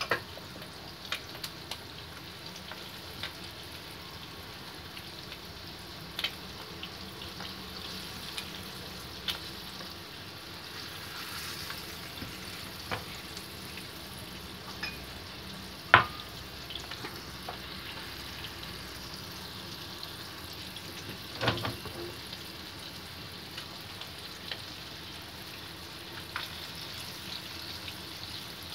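Flour-coated chicken pieces frying in hot oil in a wok: a steady sizzle with scattered crackles and pops. A sharp, louder pop or knock comes about sixteen seconds in, and another brief louder burst a few seconds later.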